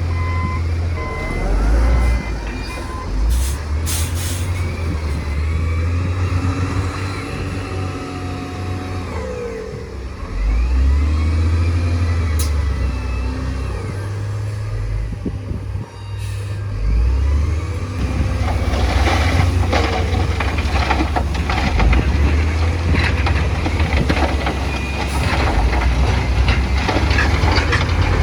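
Bulldozer and dump truck diesel engines running heavily under load, with faint squeals that rise and fall. From about two-thirds of the way in, dense crackling and crunching joins them.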